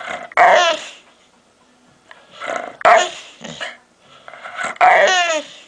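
A dog making odd growling, grumbling vocal noises in three bouts, the pitch sliding downward at the end of the bouts.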